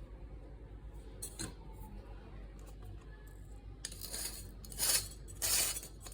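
A spoon scooping ground coffee out of the aluminium filter basket of a Neapolitan drip coffee maker: a single click, then from about four seconds in a run of metal scraping strokes.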